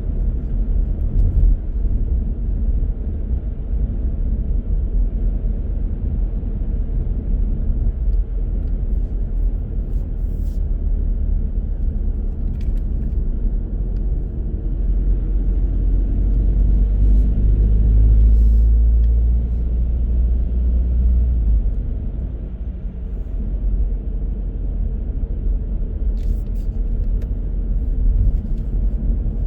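A car driving along a road: a steady low rumble of engine and tyres, which swells louder for a few seconds past the middle.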